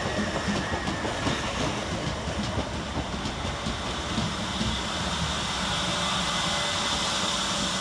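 Class 377 Electrostar electric multiple unit arriving at the platform, its wheels clicking over rail joints in the first few seconds, then a steady hiss.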